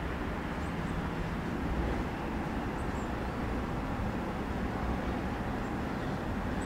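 Steady low rumble of a train moving through the station yard at a distance, with a few faint high chirps.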